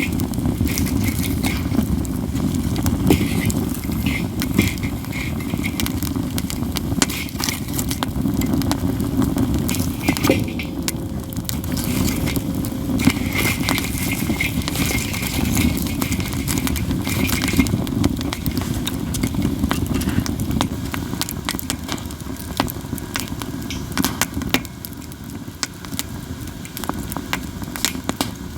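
Katsura wood burning in a campfire, crackling constantly with sharp pops scattered throughout, over a steady low rumble. Now and then a faint thin whistle comes and goes.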